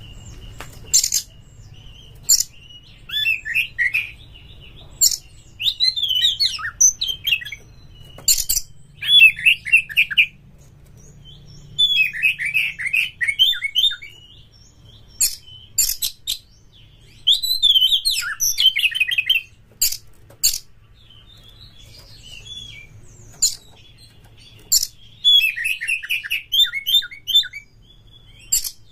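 Oriental magpie-robin (kacer) singing in bouts of fast, jumbled warbling phrases punctuated by sharp, high chips, with short pauses between bouts. This is the excited, full-repertoire song used as a lure to trigger other kacer into singing.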